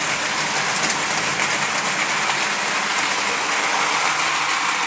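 Vintage Scale Craft O scale New York Central Hudson model steam locomotive running on the track with its train of cars: a steady whirr of the electric motor and gearing with the wheels rolling along the rails, starting suddenly.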